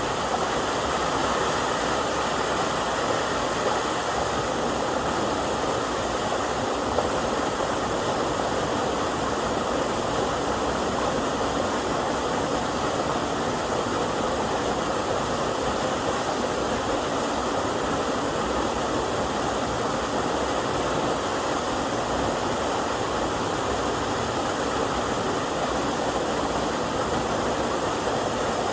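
A small waterfall pouring, with an even, unbroken rush of water; the flow is low.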